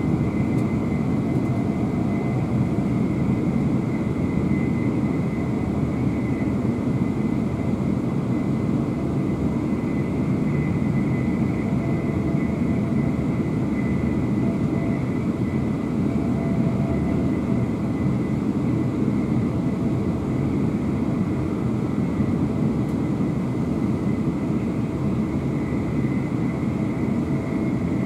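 Interior running noise of a Class 350 Desiro electric multiple unit at speed: a steady low rumble of wheels on rail with a faint, steady high whine.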